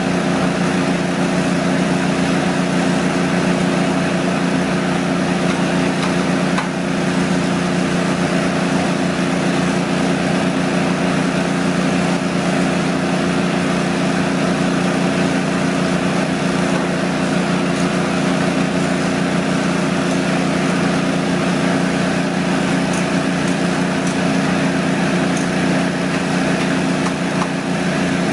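An engine running steadily at one constant speed, a continuous drone with a low hum.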